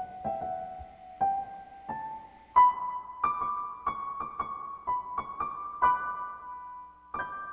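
Piano music: single notes struck one after another, each ringing and fading, climbing step by step in pitch over the first two or three seconds and then playing around one high note.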